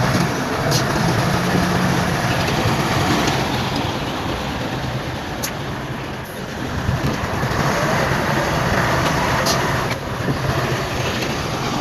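Bulldozer's diesel engine running hard, easing off about six seconds in and then rising again, with a few sharp clicks over the top.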